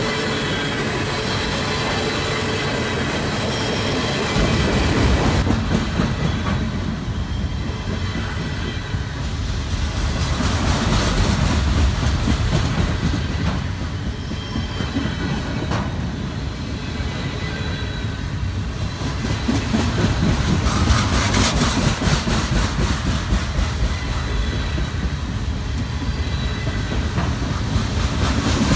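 CSX freight train rolling past, its wheels clicking and rumbling steadily over the rails, with a faint high wheel squeal in the first few seconds. The sound jumps louder about four seconds in.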